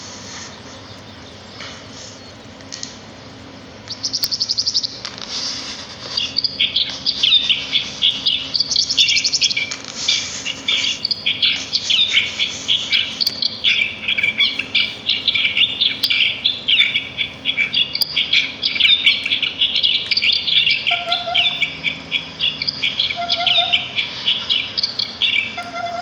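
Small songbirds chirping and twittering in a dense, fast chorus. It starts about four seconds in with a quick high trill and carries on until just before the end. A few short, lower notes sound near the end.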